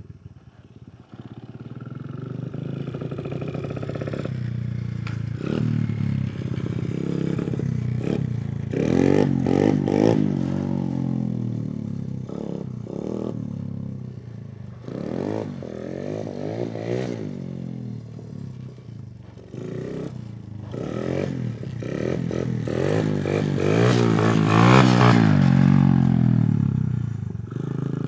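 Dirt bike engine running and revving, its pitch climbing and falling in several surges. The strongest surge comes near the end.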